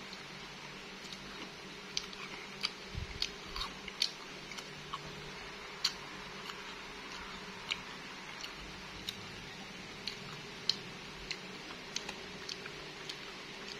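A person chewing bilimbi (belimbing sayur) fruit close to the microphone: irregular crisp mouth clicks and crunches.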